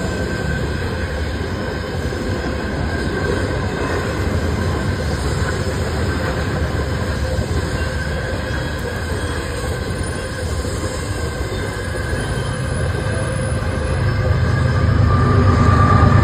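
Freight train of hopper cars rolling past: a steady rumble of steel wheels on rail with faint high wheel squeal. About 14 seconds in the sound grows louder and deeper as a Canadian Pacific diesel locomotive comes by.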